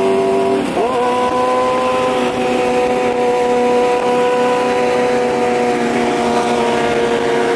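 Engines of a twin-turbo Coyote V8 Mustang and a Hayabusa superbike running side by side at a steady roll. The engine note rises once about a second in, then holds nearly constant.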